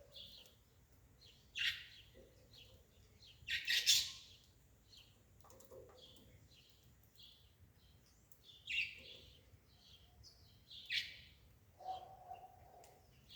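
Small birds chirping, with short high chirps about twice a second and a few louder calls scattered through.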